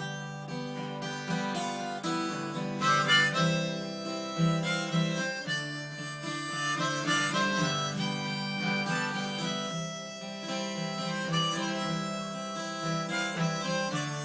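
Harmonica playing a melody over strummed acoustic guitar: the instrumental introduction of a folk song.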